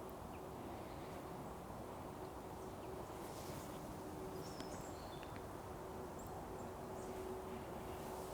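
Faint forest ambience: a steady low background hum with a few brief, faint bird chirps near the middle.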